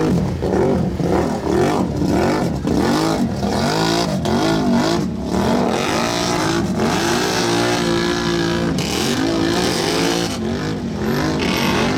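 Mud truck's engine revving hard, its pitch climbing and dropping again and again in quick succession, then holding a steadier high pitch for a couple of seconds before revving again near the end.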